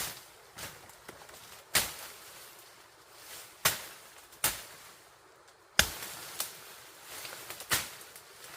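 Sharp single strikes of a tool on bamboo, about six of them at uneven gaps of one to two seconds.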